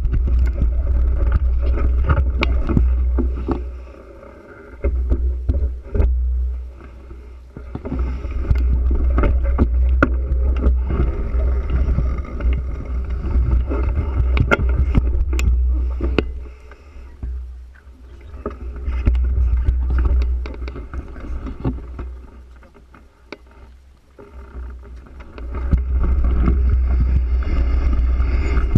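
Wind buffeting a bicycle-mounted camera's microphone in long gusts that come and go, over frequent rattles and knocks from the bicycle rolling along the road.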